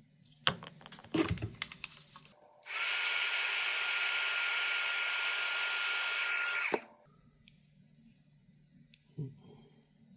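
Hot-air heat gun switched on for about four seconds to shrink heat-shrink tubing: its fan blows with a steady rush and whine, then it is switched off and winds down. A few sharp clicks of handling come before it.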